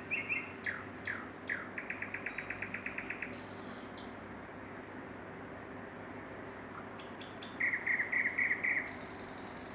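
Songbirds singing: a few chirps and three quick falling notes, then a rapid trill of about ten notes a second. A louder stuttering run of chirps comes near the end.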